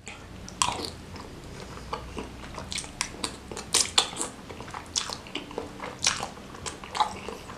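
Close-miked chewing of noodles and a bakso meatball: irregular wet smacks and mouth clicks.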